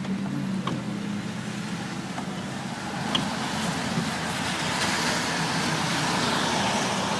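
Car tyres hissing through standing water on a flooded road, with the spray growing louder about halfway through.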